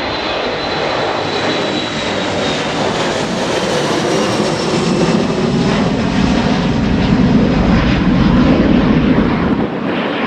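Aircraft engines of a fixed-wing plane passing close, a loud rushing noise that builds to its loudest late on, with a high whine slowly falling in pitch.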